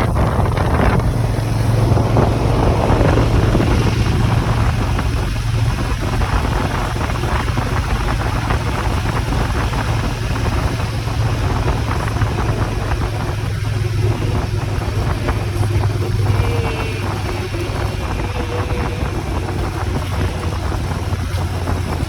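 Motorcycle engine running at a steady cruise, a constant low drone, with wind rushing over the microphone.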